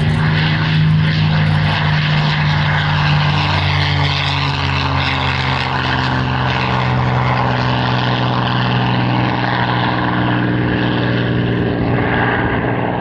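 A propeller-driven Second World War fighter's piston engine running steadily as the plane flies a display pass, with an even, unbroken engine note.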